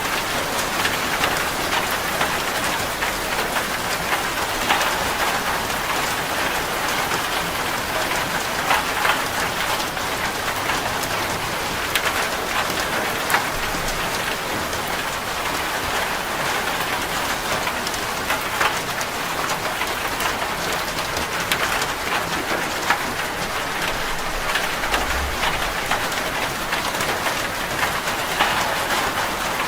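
Steady heavy rain drumming on a corrugated zinc roof: a dense, even hiss studded with sharp taps of single drops striking the metal.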